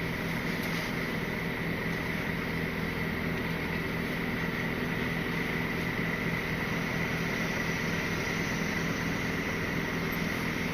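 Steady hum of the Scania R450 lorry idling, heard from inside the cab, with a thin steady high whine over the low drone.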